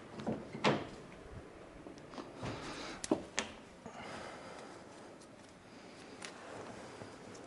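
Hand-work noises from insulating a twisted wire splice with electrical tape: rustling as the tape is worked, with a few sharp clicks, the loudest near the start and about three seconds in.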